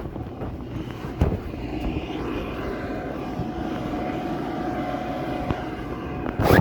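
A steady engine drone with a single held tone, swelling a little through the middle. There is a knock about a second in and a louder one near the end.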